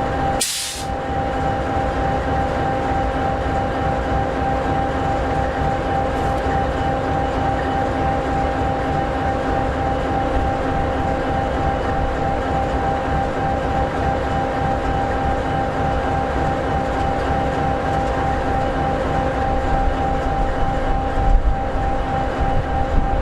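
EMD 16-710G3B sixteen-cylinder two-stroke diesel of an SD60E locomotive idling: a steady low rumble with a few steady whining tones over it. A short click-like break comes about half a second in, and a few heavier low knocks near the end.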